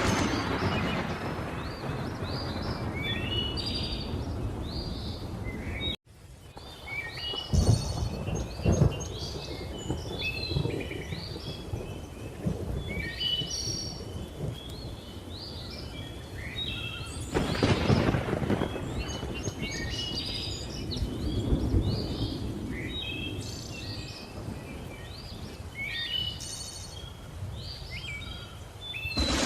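Thunderstorm: rain and low rolling thunder, with louder claps twice, while jungle birds keep chirping and calling. The sound cuts out for an instant about six seconds in and starts again.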